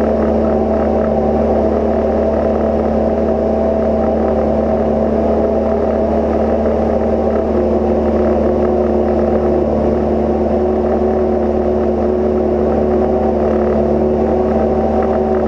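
Cozy Mk IV's pusher engine and propeller droning steadily in flight, with an even, unchanging pitch.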